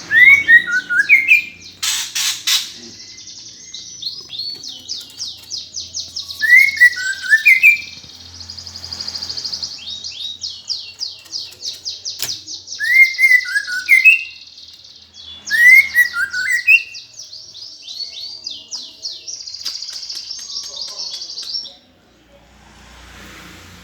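Eurasian tree sparrows chattering in a fast, unbroken stream, typical of sparrows fighting. Loud squeaky chirp phrases break in four times. The calling stops about two seconds before the end.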